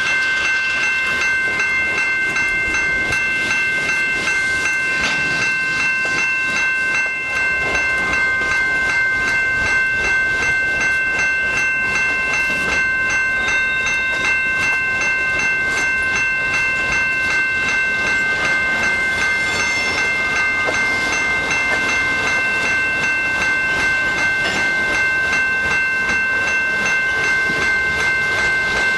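A train rolling past with a continuous rumble and clicking of wheels on the rails, over which a steady high-pitched ringing of several held tones carries on unbroken.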